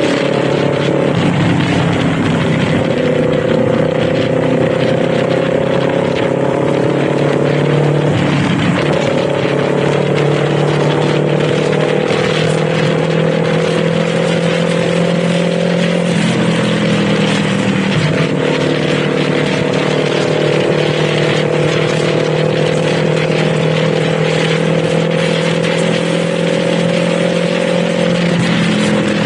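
Kawasaki Z400's parallel-twin engine pulling under way. Its note climbs slowly, then dips sharply and recovers about five times, over a steady rush of wind and road noise.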